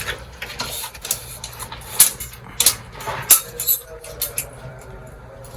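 A few sharp knocks and clicks at uneven intervals, starting about two seconds in, from workers handling and fitting a bathroom fixture.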